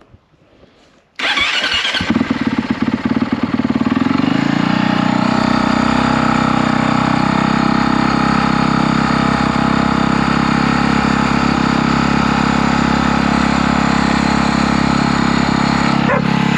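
A vehicle engine starts about a second in, runs rough for a couple of seconds, then settles into a steady loud idle.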